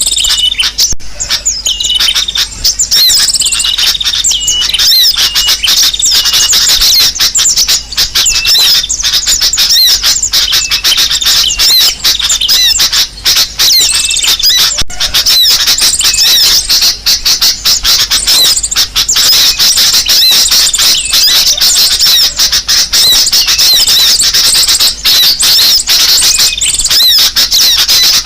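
Bird-lure recording of sunbird calls mixed with sooty-headed bulbul calls. It is a loud, dense, unbroken stream of overlapping high-pitched chirps and short squeaky notes, repeated over and over.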